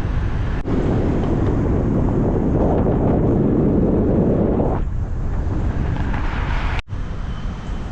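Road noise heard from a moving bicycle: wind rumbling on the microphone together with traffic on the street. A louder rush swells from just under a second in and drops away about five seconds in, and there is a brief dip near the end.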